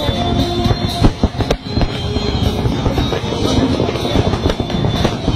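Fireworks going off with continual popping and crackling and two sharp bangs, about a second and a second and a half in, over loud music with a drum beat.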